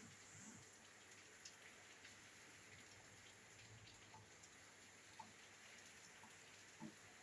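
Faint steady rain, a soft hiss with scattered drops tapping, as heard at a window; one louder low thump near the end.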